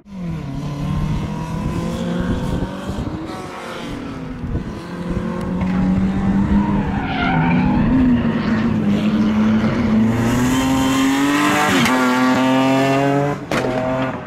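BMW 323ti Compact's straight-six engine running hard on track, its pitch rising and falling with the throttle, then climbing steadily as it accelerates hard near the end. A brief tyre squeal comes about halfway through.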